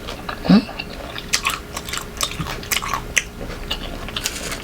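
A person biting and chewing crunchy unripe green mango close to the microphone: a run of sharp, irregular crunches, with a brief voiced sound about half a second in.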